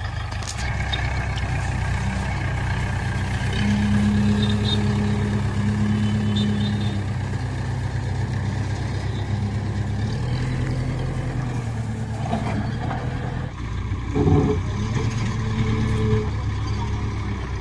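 Heavy diesel engine running steadily, its note strengthening for a few seconds about four seconds in, with a few short clunks in the last few seconds.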